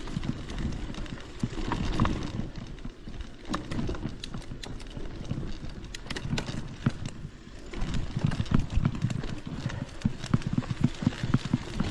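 Footsteps of a hiker walking down a trail, a quick run of dull thuds with scattered sharp clicks, pausing briefly a little past halfway.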